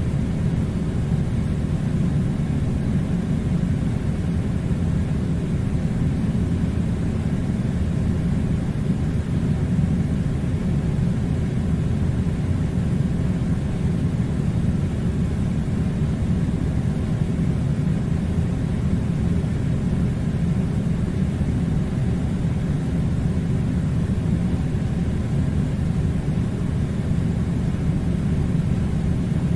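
A steady, low rumbling noise that keeps an even level throughout, with no change or break.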